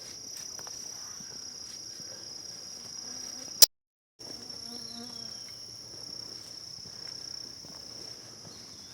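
Steady high-pitched chorus of insects in summer woodland. About three and a half seconds in there is a sharp click and the sound drops out completely for about half a second before the chorus returns.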